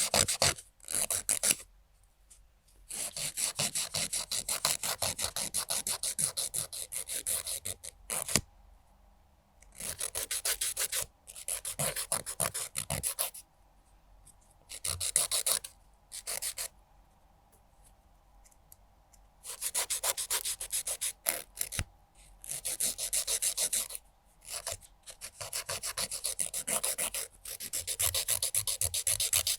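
Nail file rasping rapidly back and forth across a fingernail in bursts of quick strokes, stopping several times for a second or two before starting again.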